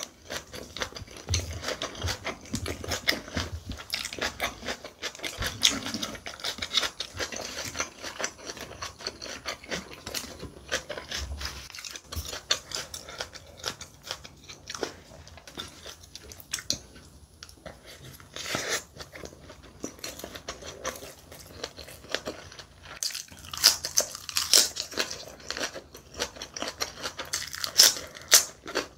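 A person chewing and biting food close to the microphone: a run of small crunches and clicks, with louder crunchy bites about two-thirds of the way through and again near the end.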